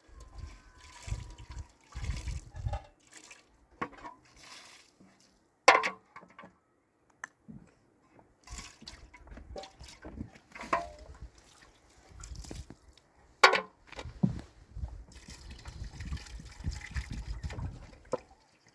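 Water being handled, splashing and dribbling, with scattered clatter and two sharp knocks, about six seconds in and again about thirteen seconds in.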